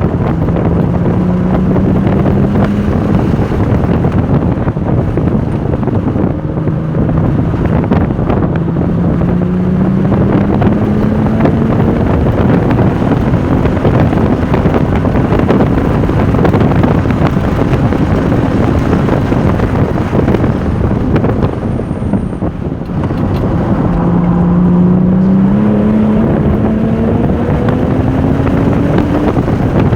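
Porsche 996 Turbo's twin-turbo flat-six pulling hard at speed, its pitch climbing in several long sweeps with brief lifts between, under heavy wind and road noise.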